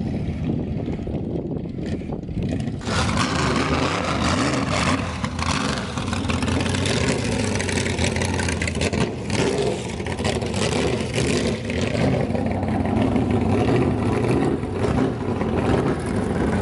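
Car engine running at low speed, with a wash of higher-pitched noise joining about three seconds in.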